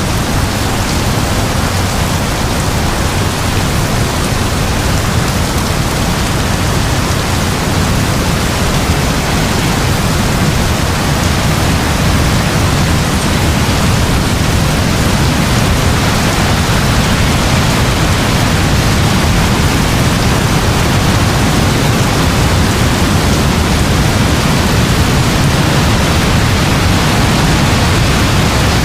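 Heavy rain falling steadily: a dense, even hiss with a steady deep rumble underneath.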